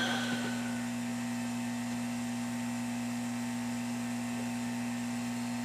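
Steady electrical mains hum, a constant low buzz with no change in pitch or level.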